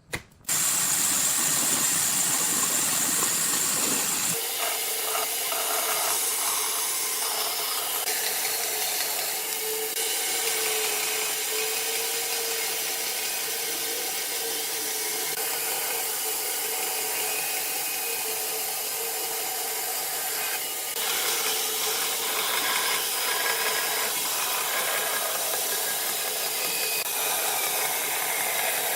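Electric power tool running steadily while working wood, a continuous hissing noise over a steady motor tone, starting suddenly; the deeper part of the sound falls away about four seconds in.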